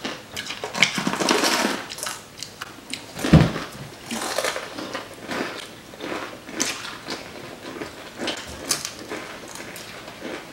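Crisp crunching and chewing as two people bite into raw cucumbers stuffed with Takis rolled tortilla chips, with one louder bump about three seconds in.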